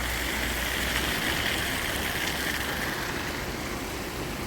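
Steady rush of rainwater flowing out of a roadside culvert, with a low rumble underneath that eases about a second in.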